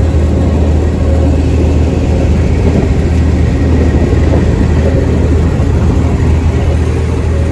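Third-class passenger train running, heard from inside the car: a loud, steady rumble with a strong low drone and no breaks.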